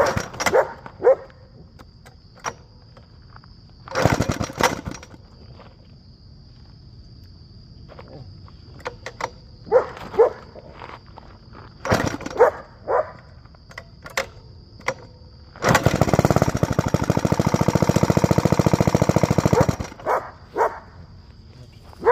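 Choked Continental 175cc Red Seal engine of a 1963 Simplex Compact Sportsman mini bike being kick-started. It fires briefly about four seconds in, and later catches and runs for about four seconds before dying.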